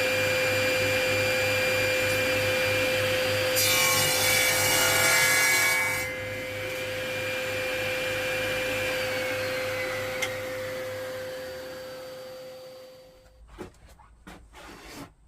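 Power saw running and cutting through a wood board for about two seconds, starting about four seconds in. It is then switched off and winds down, its pitch falling, over the next few seconds.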